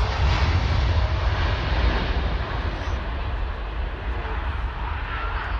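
Jet airliner passing close by, its engine noise a steady rush over a deep rumble that begins to fade about three seconds in.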